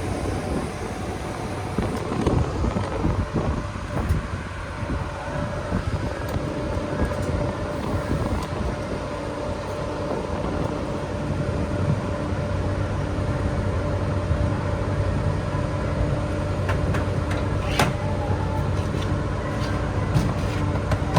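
Steady low engine hum of idling trucks at a truck-stop fuel island during diesel fueling. A steady tone joins about nine seconds in, and a few sharp clicks come near the end.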